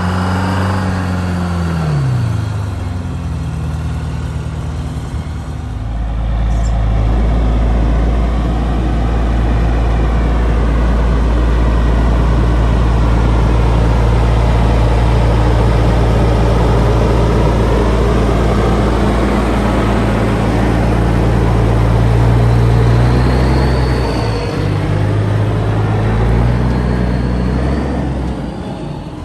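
Heavy diesel truck engine running close by. Its pitch falls in the first couple of seconds, then from about six seconds in it settles into a loud, steady low drone, and it shifts pitch again a few seconds before the end as the truck moves.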